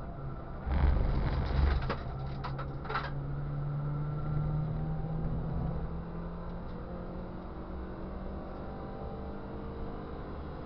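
A Ford Fiesta Cup race car's engine, heard from inside the car, rises slowly in pitch as it accelerates out of a corner and then runs at a steady pitch. About a second in, a loud rough rumble with several sharp rattling knocks lasts about two seconds.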